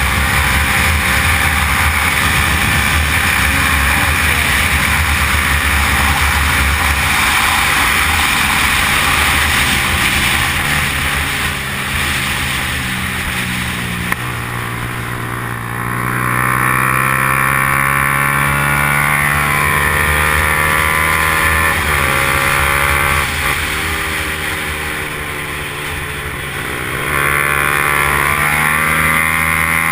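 Yamaha R15's single-cylinder four-stroke engine under hard racing throttle, held at high revs with wind rush. The revs drop and climb back twice, about halfway through and again near the end, as the rider slows for corners and accelerates out.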